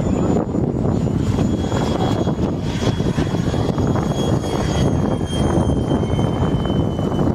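A radio-controlled model jet plane flying past, its engine giving a high, steady whine over a dense rushing noise. The whine drops slightly in pitch and fades near the end.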